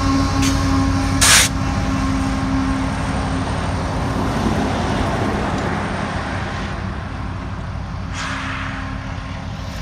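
BNSF diesel locomotive and its loaded covered hopper cars rolling past: a steady engine drone over rumbling wheels on rail, slowly fading as the train draws away. A short sharp clatter about a second in, and a passing road truck's hiss near the end.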